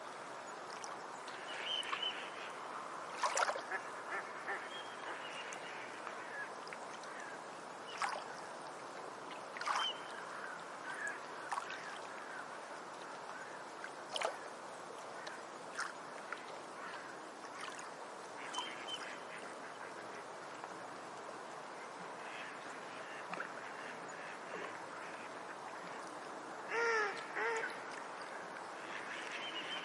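Forest ambience: a steady background hiss with scattered short, sharp bird calls. Near the end come two short pitched, duck-like calls, the loudest sounds in the stretch.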